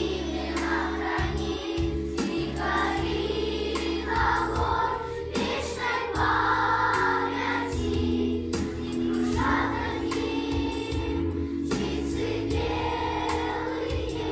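A school choir singing over held low instrumental notes, its phrases rising and pausing about every second.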